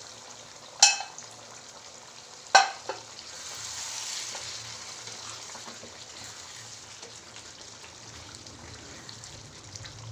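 Chicken pieces sizzling in masala gravy in a hot pan as they are stirred, with two sharp metallic clanks of the utensil against the pan, about a second and two and a half seconds in. The sizzle swells briefly around four seconds in.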